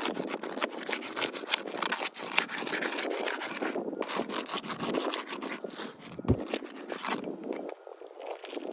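Roof shingle being worked loose and pulled off the roof: rough, continuous scraping and rasping with many quick cracks, dying away near the end.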